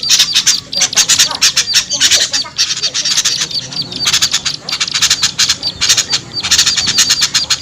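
Loud, dense chattering of many small birds: rapid volleys of short, high, scolding notes overlapping one another. This is a bird-lure call mix of noisy small songbirds, made to draw wary birds down.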